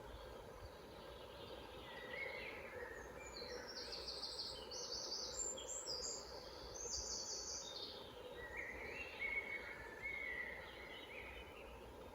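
Songbirds singing in woodland: a run of high, quick phrases in the middle, then lower phrases near the end, over a faint steady low rumble.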